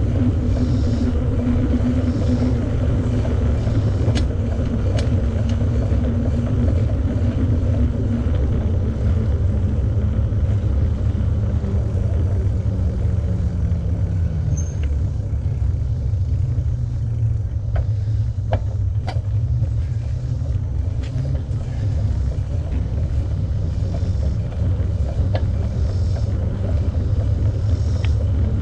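Steady low rumble of wind and rolling noise on the microphone of a cyclist riding along, with a low hum that drops in pitch about halfway through and a few faint clicks.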